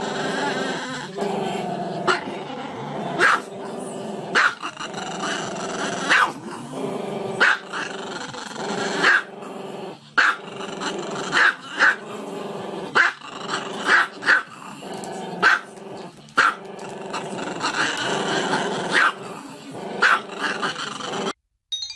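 Small dog growling continuously, broken by sharp barks roughly once a second; the sound cuts off abruptly just before the end.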